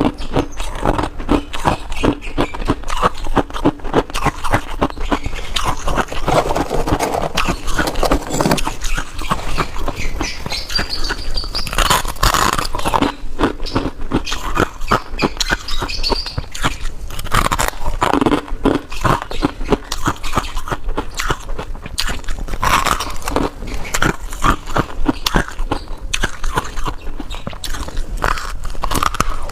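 A person biting and chewing freezer ice and frost, a dense, unbroken run of crisp crunches.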